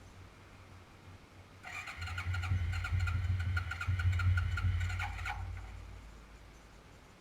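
A 1992 Suzuki QuadRunner 300 ATV on a cold start, its electric starter whining as it cranks the engine over in chugging pulses for about three and a half seconds. It stops without the engine catching.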